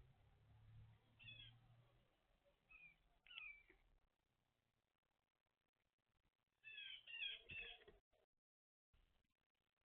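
Faint bird calls at a feeder: a few short calls between one and three and a half seconds in, then three quick calls in a row about seven seconds in.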